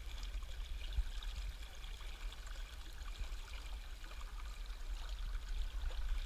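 River water rushing steadily below a power dam, with a low rumble under the hiss of the current, and a single brief bump about a second in.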